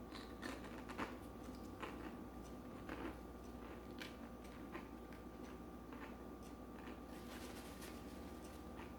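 Faint eating sounds: soft, irregular crunches and mouth clicks from chewing a fried crab rangoon, over a low steady electrical hum.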